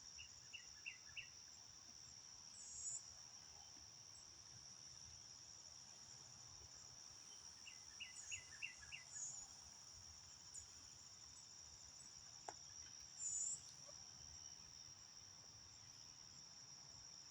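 Faint insect chorus: a steady high-pitched drone of crickets or similar insects, with a few short runs of quick chirps now and then.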